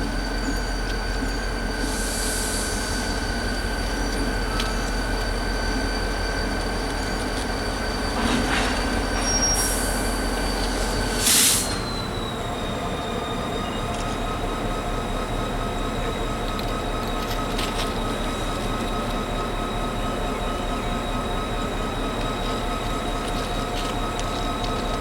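Mixed freight train's wheels and brakes squealing in long steady tones as the train slows toward a stop. About eleven seconds in there is a short, loud burst of noise, and the squeal then drops to a lower pitch.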